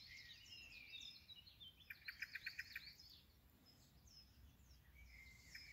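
Faint outdoor birdsong: songbirds chirping with quick high gliding notes, with a rapid trill of short repeated notes about two seconds in and another starting near the end.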